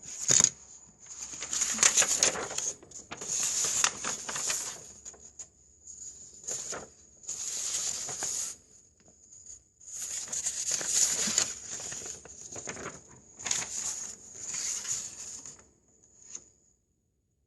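Drawing strokes scratching on paper, coming in about seven bursts of one to two seconds with short pauses between.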